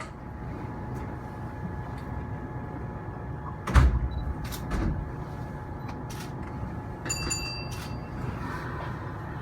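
Kintetsu train standing with its electrical equipment humming steadily while the sliding doors shut: two heavy thuds about 4 and 5 seconds in, then a short high beep about 7 seconds in.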